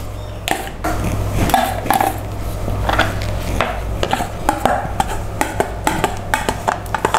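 A spoon stirring lemon halves in a black iron kadai, with irregular knocks and scrapes of the spoon against the pan, over a steady low hum.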